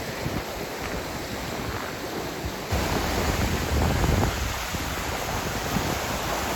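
Steady rush of water from a cascading mountain creek, overlaid by wind buffeting the microphone; the rumble jumps louder suddenly about three seconds in.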